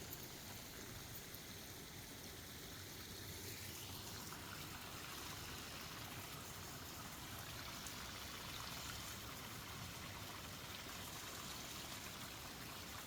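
Forest creek running, a steady faint trickle and rush of water.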